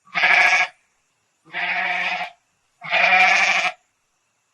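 A farm animal bleating: three separate calls, each under a second long, with short silences between them.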